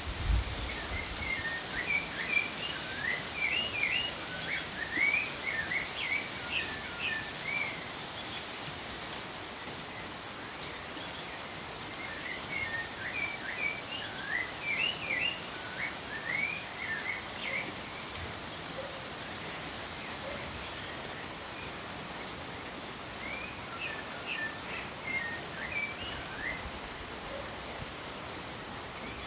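Songbird singing in three bouts of quick, rising and falling chirps, with pauses between, over a steady hiss of rain.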